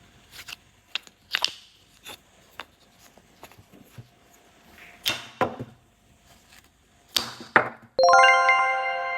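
Small hard toy pieces clicking and tapping as they are handled, then near the end a single bell-like ding that rings out and slowly fades.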